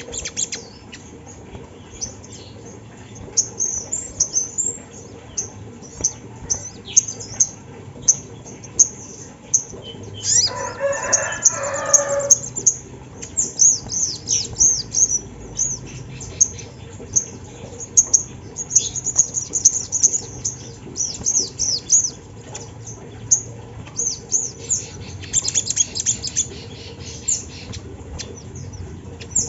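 Ruby-cheeked sunbird (sogon) singing: rapid runs of very high, thin chirps and trills. About ten to twelve seconds in, a lower call lasts about two seconds.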